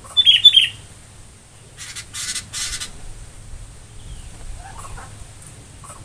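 Small aviary birds calling: two loud, sharp chirps just after the start, then a rough, hissing rattle in a few pulses lasting about a second, and a few fainter calls near the end.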